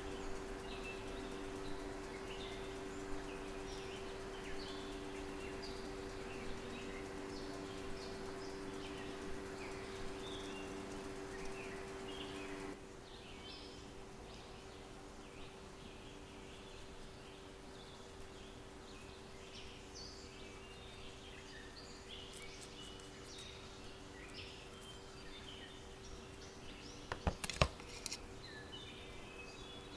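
Small birds chirping, many short high calls scattered throughout, over a steady hum that drops away about halfway through. A few sharp clicks or knocks near the end.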